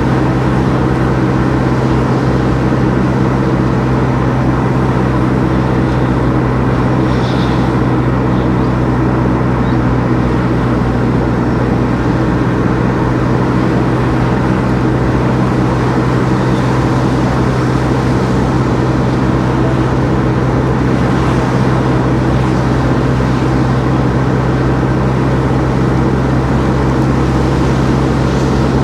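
Car driving along, its engine and road noise making a steady low hum.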